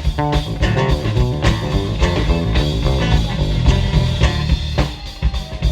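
Live rock band playing an instrumental passage, with electric guitar and bass to the fore and no singing. Near the end the music dips briefly, then a guitar note bends in pitch.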